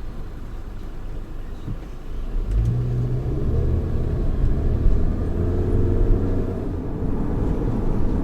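Geely Atlas's 1.8-litre turbocharged four-cylinder engine pulling under acceleration while the car is driven. Its low note swells about two and a half seconds in, then holds steady with a slight rise in pitch.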